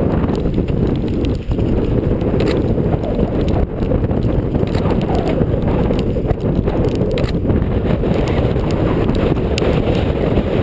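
Strong wind buffeting the microphone: a loud, steady, low rushing noise with irregular flutter and a few faint clicks.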